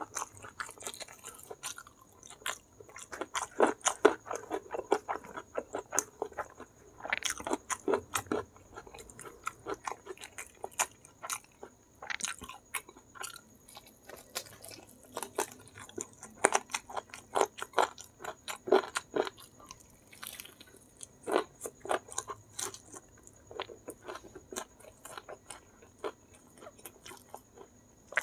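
Close-up eating sounds of crispy battered fried chicken drumsticks: biting and chewing, with quick, irregular crunches throughout.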